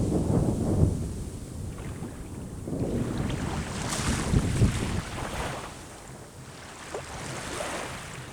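Waves washing onto the shore, swelling and falling back, with wind buffeting the microphone.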